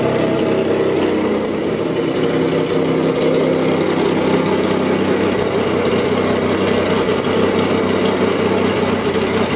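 1992 Ford Taurus SHO's 3.0-litre Yamaha V6 idling steadily on its own, just started and off the throttle.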